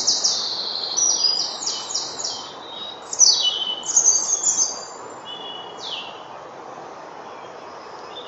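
Songbirds chirping in quick, high twittering phrases with some short down-slurred notes, over a faint steady outdoor hiss. The calls are busiest in the first five seconds, then thin out to a single sliding call about six seconds in.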